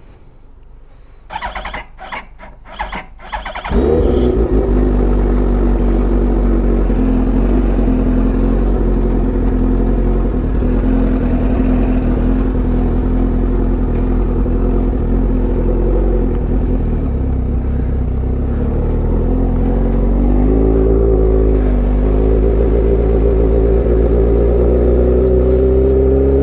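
A 2003 Yamaha R1's inline-four engine with an aftermarket exhaust, cranked in a few short bursts, catching about four seconds in and then idling loudly and steadily. About twenty seconds in, its pitch dips briefly and rises again.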